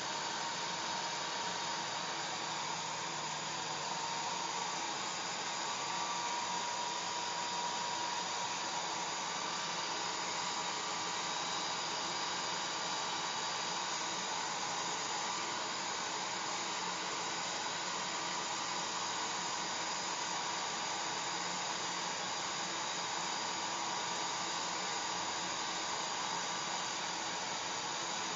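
Hair dryer running steadily: an even rush of blowing air with a faint motor whine.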